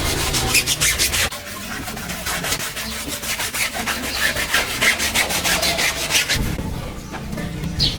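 Brush scrubbing a dirty surface in rapid back-and-forth strokes, about five a second. A low hum joins about six seconds in.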